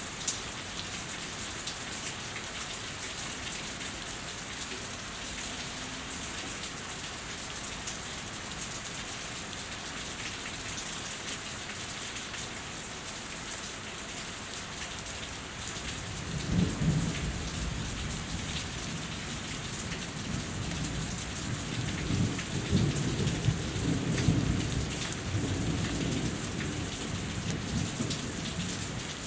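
Steady rain falling and dripping off a house. About halfway through, a long roll of thunder starts to rumble in and swells in several peaks toward the end.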